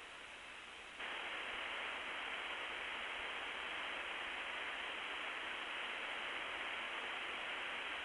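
Steady hiss of a long-distance telephone line while an international call is being set up. About a second in, the hiss steps up louder as the carrier noise of the circuit comes on.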